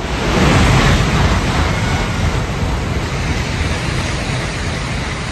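Shinkansen bullet train passing through the station at speed without stopping: a loud rush of air and wheel noise that swells sharply about half a second in and holds steady as the long train goes by.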